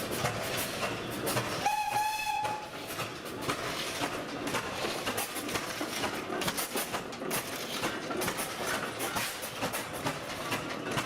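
A short, steady steam whistle blast of just under a second, about two seconds in, over continuous clattering steam machinery.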